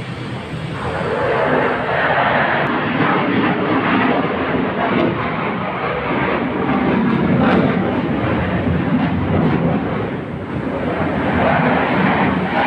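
Fighter jet flying past, its engine a loud steady rush that swells about a second in, eases near the ten-second mark and builds again.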